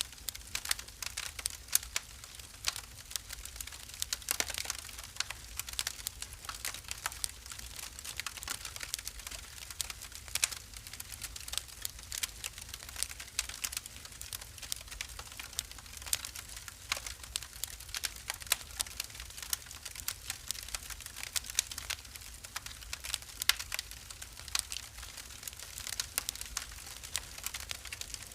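Wood fire burning in a fireplace, crackling with a steady stream of small sharp pops and snaps over a low rumble.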